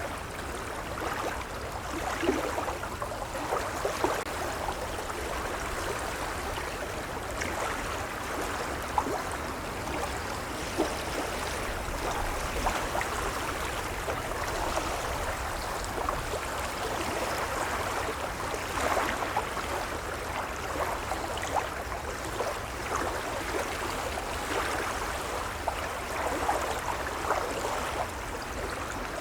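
Gentle waves lapping, a steady wash of water full of small splashes and gurgles.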